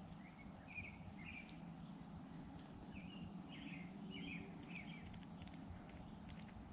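Small birds giving short, scattered chirps, faint, over a steady low outdoor background noise.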